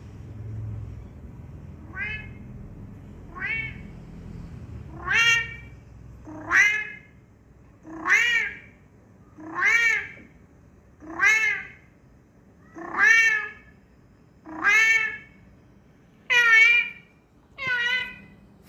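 A domestic cat meowing over and over, eleven meows about one and a half seconds apart, each rising then falling in pitch. The first two meows are faint and the rest louder.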